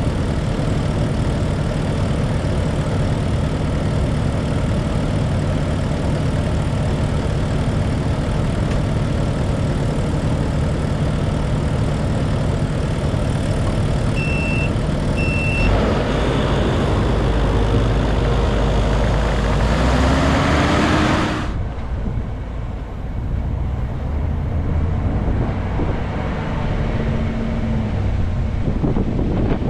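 Snow-clearing vehicle engine running steadily, with two short high beeps about halfway through. The engine gets louder and its pitch rises briefly about two-thirds of the way in, then the sound drops abruptly to a quieter engine.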